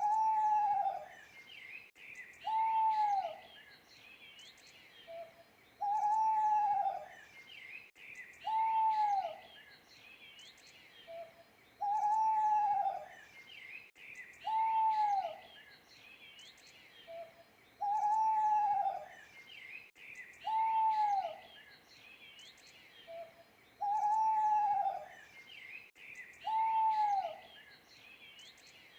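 An owl hooting: ten arched hoots, one about every three seconds, each rising then falling and lasting just under a second. A short soft note comes before every other hoot. Fainter high bird chirps go on underneath.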